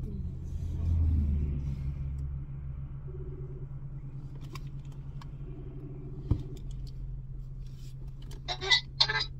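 Car engine idling steadily, heard from inside the cabin as a low hum. Two short faint tones come from the phone on speaker while the call rings, and there is a sharp click about six seconds in.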